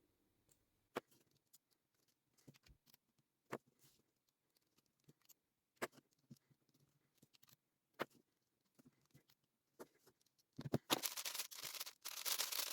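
A 7x7 speedcube being adjusted to loosen its tension gives scattered single plastic clicks a couple of seconds apart. About two seconds before the end comes a dense run of fast clicking as its layers are turned.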